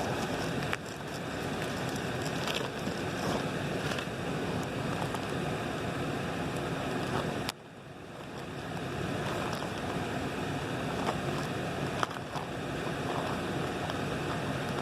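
Steady outdoor rushing noise of wind and water, with a few light knocks of the camera being moved. The noise drops off suddenly about halfway through and then builds back.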